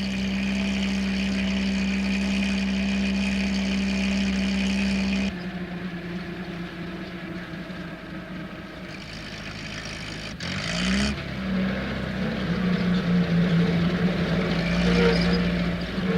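Post van engine running with a steady hum; it drops away suddenly about five seconds in, leaving a quieter hiss, then after a click about ten seconds in the engine hum glides up in pitch and runs steady again.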